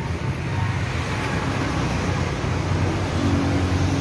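Motor vehicle engine running steadily at idle, a low even hum, with traffic-like noise around it.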